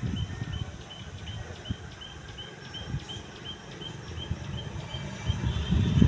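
A bird repeating one short, high chirp about four times a second at an even pace, over a low, uneven background rumble.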